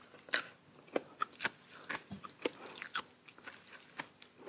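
Close-miked chewing of crunchy food: irregular crunches and wet mouth clicks, a few each second.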